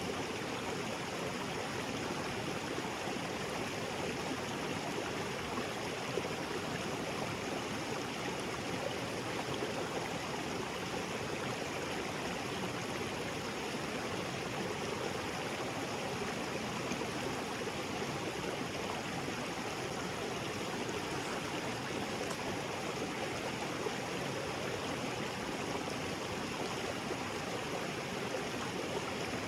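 Small waterfall splashing into a rocky jungle creek, a steady, even rush of water.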